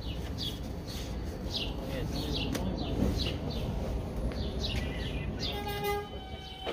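A bird chirping over and over, short falling chirps about twice a second, over a low rumble. Near the end several steady whining tones start up as the subway train begins to move.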